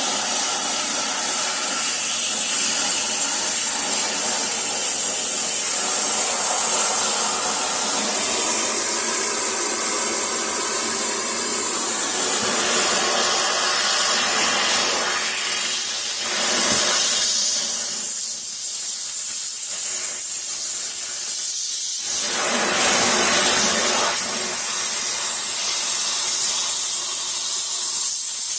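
Gas welding torch flame hissing steadily as it heats and puddles a cast-iron exhaust manifold. The lower part of the hiss drops away for a few seconds past the middle, then comes back.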